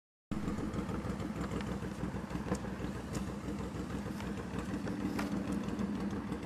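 Honda VTX 1800-C's big V-twin engine running steadily at low speed with an even, pulsing rumble and no revving, with a few faint clicks.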